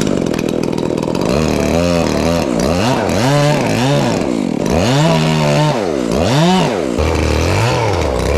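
Chainsaw starting up sharply at full throttle and cutting the back cut in a fir trunk, the engine speed repeatedly rising and dropping back as the chain works in the wood.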